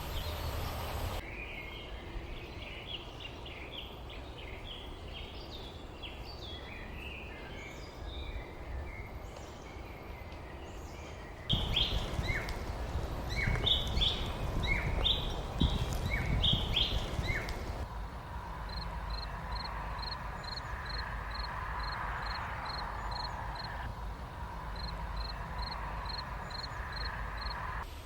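Wild songbirds chirping and calling over a low outdoor rumble, in several joined stretches; the middle stretch is louder. In the last third one bird repeats a short high note about twice a second.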